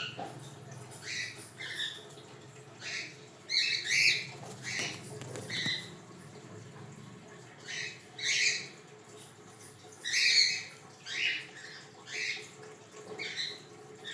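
Cockatiels calling: a string of short calls, one every half second to a second with brief pauses, some noticeably louder, the loudest about four, eight and ten seconds in.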